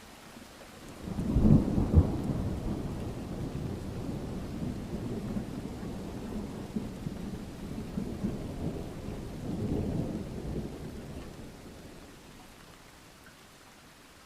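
A thunderclap over steady rain: two sharp cracks about a second in, then a long low rumble that rolls on, swells once more near the ten-second mark and fades back to the rain.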